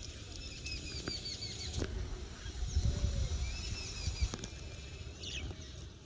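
Small birds chirping in two runs of short, quick high notes, with another call near the end, over scattered light clicks and a low rumble.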